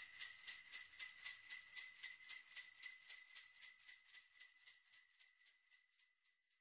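Sleigh bells shaken in a steady rhythm, about three jingles a second, fading away gradually until they stop at the very end.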